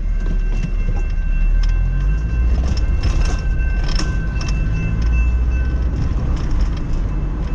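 Car cabin road noise as the car drives over a railroad crossing: a steady low rumble with irregular knocks as the tyres bump over the rails.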